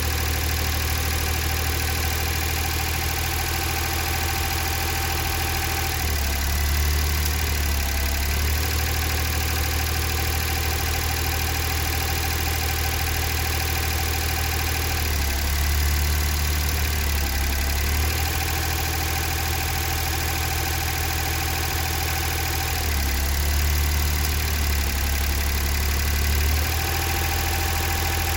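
Daihatsu Atrai Wagon's 660 cc three-cylinder engine, high-mileage (over 110,000 km), idling with loud mechanical noise. Three times it is put under load in low range and its deep hum swells for two to four seconds before settling back to idle.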